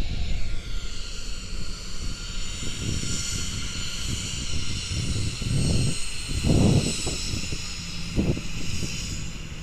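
Aircraft engines passing: a high whine of several steady tones, gliding down at the start, over a low, uneven rumble that swells loudest about six to seven seconds in.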